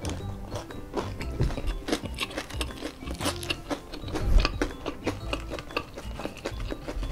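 Chewing and biting into crispy fried chicken with crunchy kremes crumbs, many small sharp crunches one after another, over background music with held tones.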